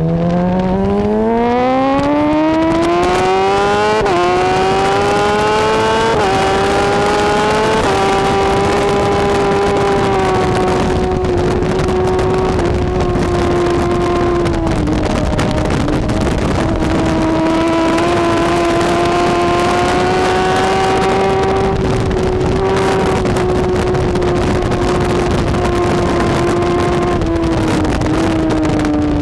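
BMW S1000RR superbike's inline-four engine accelerating hard at racing speed. The pitch climbs steeply with three quick upshifts in the first eight seconds, then holds near-constant high revs flat out, with a few brief slight dips.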